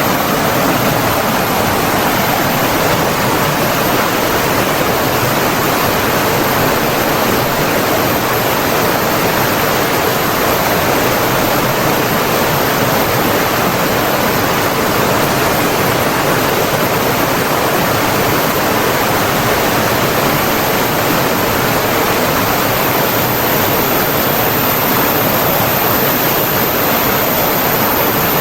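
Rushing flowing water, a loud, steady, even rush with no breaks.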